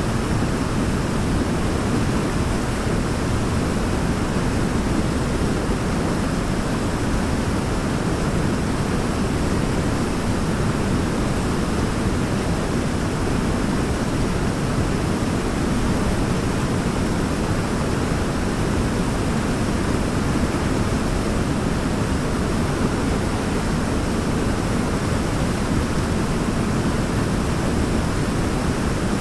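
Waterfall rushing: a steady, dense roar of falling water with no breaks.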